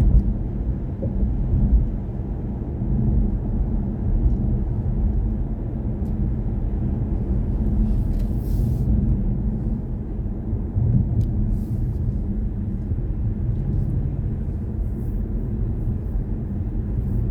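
Steady low road and tyre rumble of a BMW i4 M50 electric car driving along, heard from inside the cabin.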